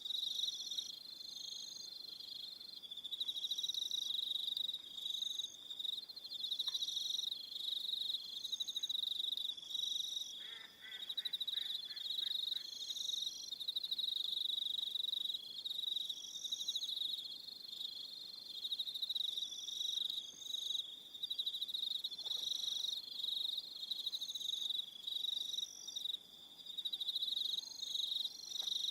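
An evening chorus of crickets trilling in a steady high-pitched band, with shorter, higher chirps repeating every second or two over it. A faint lower pulsed call comes in briefly near the middle.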